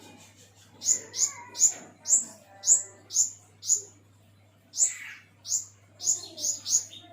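Pentis kumbang flowerpecker calling: a string of short, sharp, very high chips, each falling slightly in pitch, about two a second, with a short pause near the middle.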